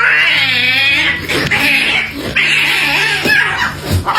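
A cat yowling loudly: a wavering, wailing cry about the first second, then several long, rough cries.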